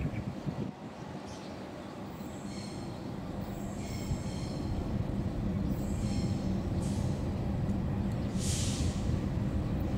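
Train running on the rails and coming closer, its low rumble and hum growing steadily louder. High squealing tones from the wheels on the rails come in a few seconds in and again later, with a short hiss near the end.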